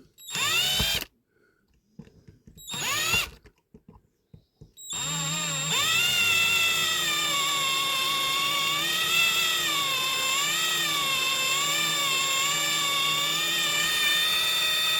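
Electric drill drilling out a rivet post on a diecast toy car base. It gives two short bursts, each spinning up, then a long continuous run from about five seconds in, its whine wavering in pitch as the bit bites into the metal.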